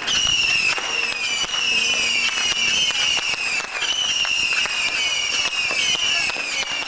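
Strings of firecrackers popping in rapid, dense cracks, with a high, shrill tone that slides slowly downward and jumps back up every second or two.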